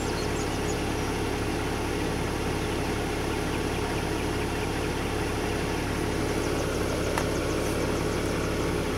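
Steady low hum of a BMW E46 325Ci's M54 straight-six idling, heard inside the cabin, with one faint click about seven seconds in.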